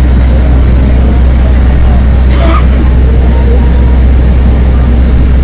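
Steady low rumble of an airport apron bus heard from inside the cabin as it drives, with a short sharp noise about two and a half seconds in.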